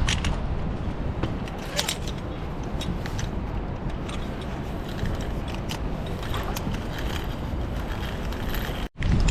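Wind buffeting the microphone in a steady low rumble, with scattered sharp clicks and rattles. The sound drops out for a moment near the end.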